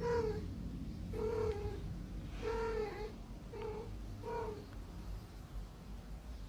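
A cat meowing five times in a row, short steady-pitched calls a second or so apart, falling silent after the fifth.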